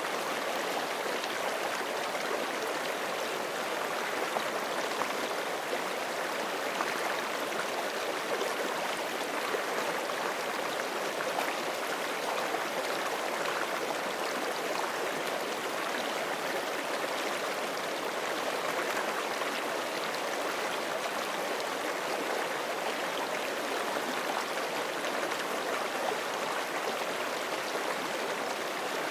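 Forest creek flowing and splashing over rocks: a steady, even rush of running water.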